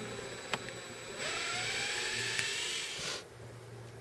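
A motor's whir, rising slowly in pitch, starts about a second in and cuts off after about two seconds, over a low steady hum.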